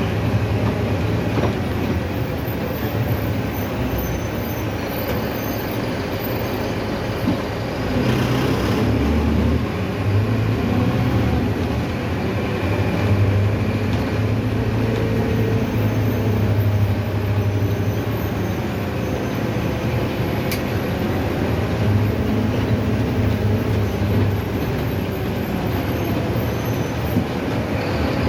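Mercedes-Benz OF-1519 city bus running along the road: steady diesel engine hum and road noise, with the engine's drone swelling and easing as it pulls, and the odd brief rattle.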